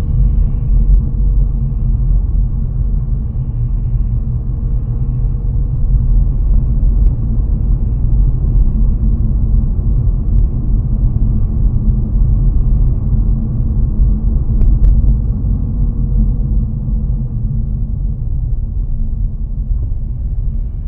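Steady low rumble of a car's road and engine noise heard inside the cabin while driving on wet, slushy roads, with a brief click about 15 seconds in.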